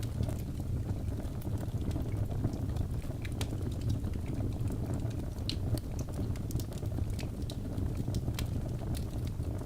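Wood fire burning in a fireplace: a steady low rumble of flame with many irregular sharp crackles and pops from the burning logs.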